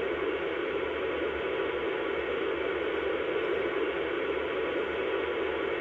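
Steady, unchanging rushing noise from the onboard sound system of an MTH O-scale R-40 Slant subway car model.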